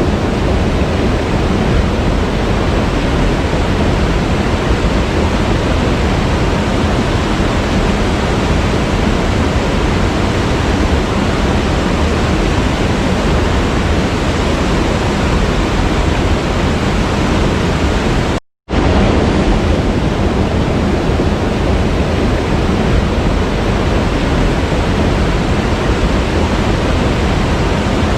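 Waterfall, a steady, even rush of falling water, cutting out completely for a moment about two-thirds of the way through.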